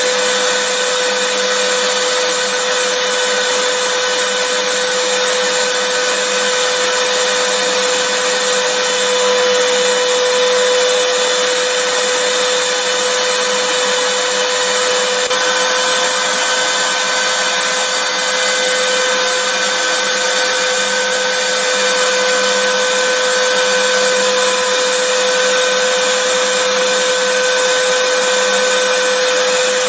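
Vacuum cleaner running continuously at a steady pitch: an even rushing air noise with a steady motor whine.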